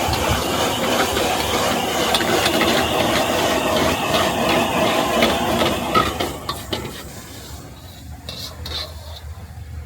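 Stir-frying rice noodles with egg and pork in a wok: a loud sizzle with the metal spatula scraping and tossing against the pan, dropping about six and a half seconds in to a quieter stretch of scattered clicks and taps.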